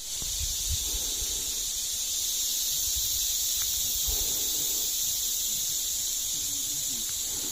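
Chorus of cicadas singing: a steady, unbroken high-pitched buzz, with a low rumble underneath.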